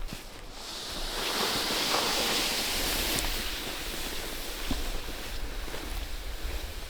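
A gust of wind rushing through the forest in a snowstorm, swelling about a second in and slowly dying away.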